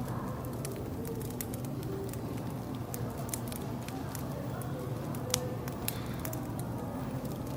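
Wood fire crackling, with sharp irregular pops, the loudest about five and a half seconds in, over a low steady hum and faint murmur of cafe background noise.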